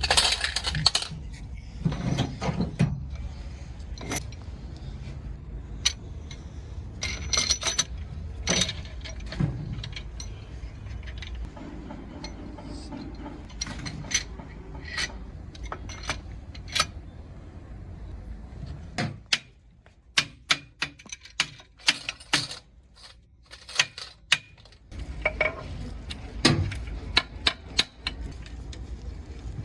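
Hand tools clinking and knocking on metal engine parts during a diesel engine teardown: a string of sharp clanks at irregular intervals over a steady low hum, which drops out for several seconds past the middle.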